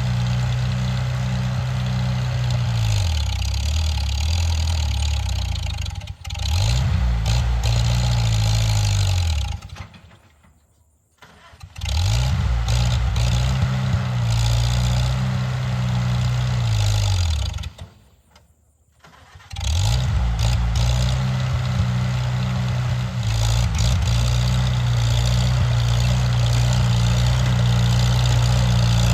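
Tractor engine running, then slowing and dying out twice, each time started again a second or two later and running on. It ends running steadily, a sign of the engine trouble the tractor is having.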